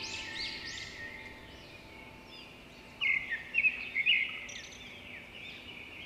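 Wild birds calling: a dense run of quick repeated high chirps, then a burst of louder, harsher calls about three seconds in. Soft sustained background music notes fade out in the first couple of seconds.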